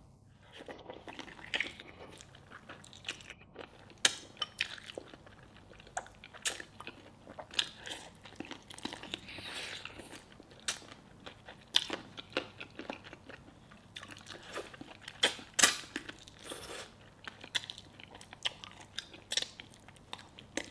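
Close-up eating sounds of braised tiger skin chicken feet being bitten and chewed: irregular wet smacks and sharp crunchy clicks, with brief pauses between mouthfuls.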